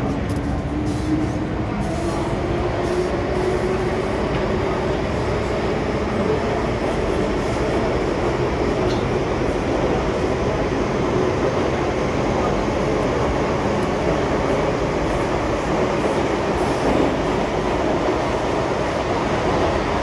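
MTR M-Train metro car in motion: its traction motors whine with a rising pitch over the first few seconds as it picks up speed, then it settles into a steady rumble of wheels on track.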